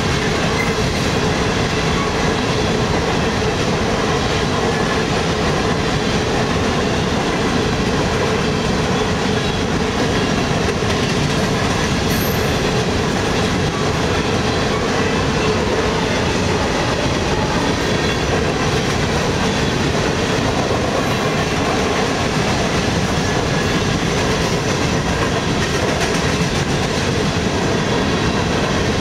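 CSX freight train of covered hopper cars rolling past at speed: a loud, steady noise of steel wheels running on the rails, unbroken throughout.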